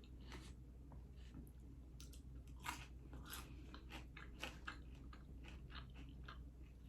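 A person chewing food close to the microphone: faint, irregular mouth clicks and smacks, with a couple of louder ones.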